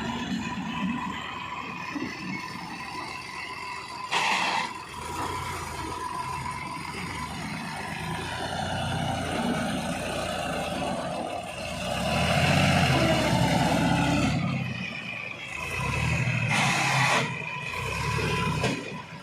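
Heavy diesel machinery running steadily, surging louder twice in the second half as it revs under work. A brief burst of noise comes about four seconds in.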